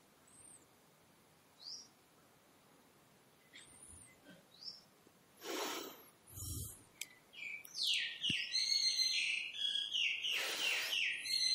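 A bird calling: a few faint short chirps at first, then a louder run of warbling notes through the second half. A couple of brief rushing noises come in the middle.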